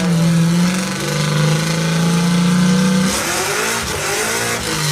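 Dodge V8 engine running steadily; about three seconds in the revs dip and climb back up.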